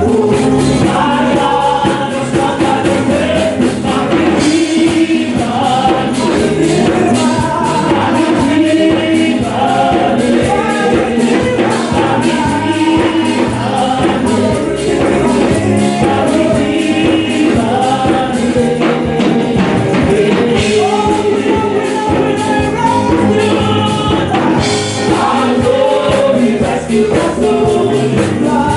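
Gospel music: a choir singing with instrumental accompaniment, steady and loud.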